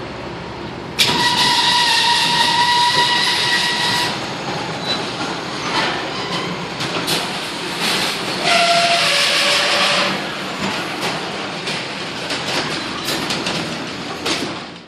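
Fire engine air horn sounding two long blasts over street traffic noise. The first lasts about three seconds and starts about a second in; the second, shorter and lower-pitched, comes about halfway through.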